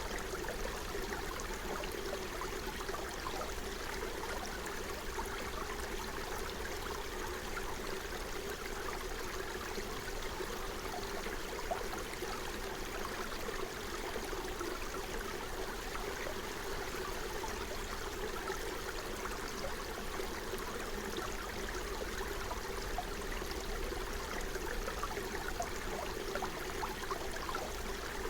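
Forest stream flowing: a steady rush of running water with fine, continuous splashing.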